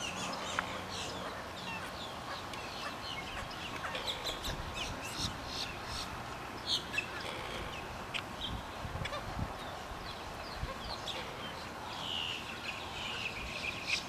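Wetland birds calling: a busy stream of short, sharp, high calls, many overlapping, with one longer drawn-out call near the end.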